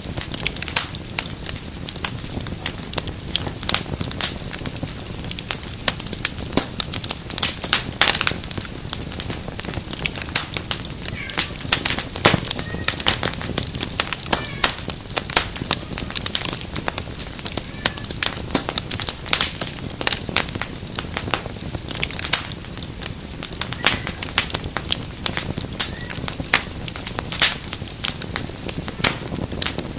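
Fireplace fire crackling and popping, with many irregular sharp pops over a steady low rumble of flames.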